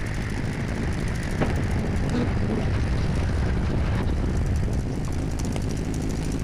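SCL850 skid-steer loader's engine running steadily, with a few light knocks or rattles.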